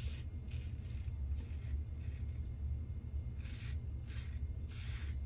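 Double-edge safety razor strokes through lathered stubble: about seven short scraping passes, some in quick pairs, over a steady low hum.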